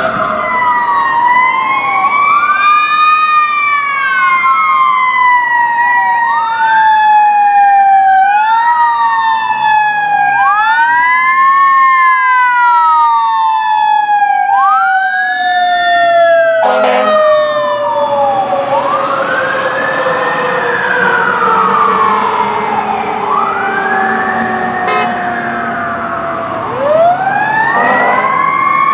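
Fire engine sirens: an electronic wail sweeps up and falls back about every two seconds over a mechanical Q siren whose pitch falls steadily as it winds down. A brief air horn blast sounds about halfway through, and the sirens pick up again near the end.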